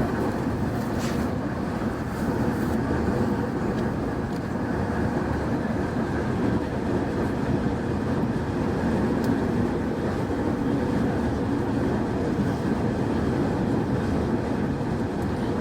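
Semboku 9300-series electric train running along the line, heard from the front of the train: a steady rumble of wheels on rail, with a few faint clicks in the first couple of seconds.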